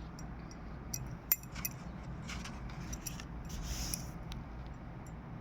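A few light clicks and taps, then a brief rustle a little past halfway, over a steady low hum.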